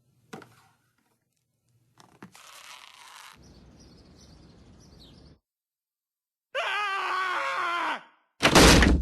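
Cartoon soundtrack: a short crash-like noise about two seconds in fades into a faint hiss. Later a cartoon character lets out a long, wavering groaning wail, and a loud burst of voice comes near the end.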